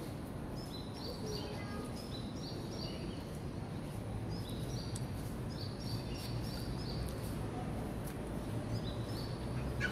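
Birds chirping in repeated series of short, high notes over a steady low hum that grows stronger about four seconds in.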